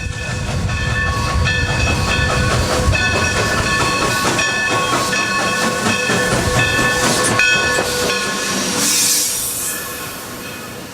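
Steam locomotive running, its multi-tone chime whistle blowing in several blasts over a low rumble. A burst of steam hiss comes about nine seconds in, then the sound fades away.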